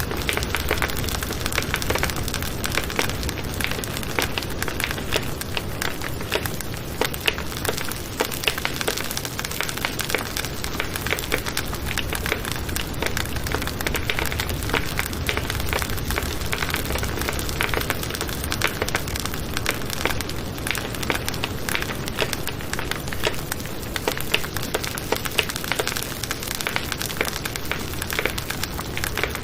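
Wood campfire burning with a steady hiss and dense, continuous crackling and popping.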